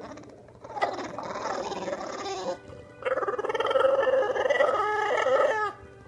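A dog vocalizing in two long, wavering calls: a shorter, rougher one about a second in, then a longer, louder one from about three seconds that stops shortly before the end.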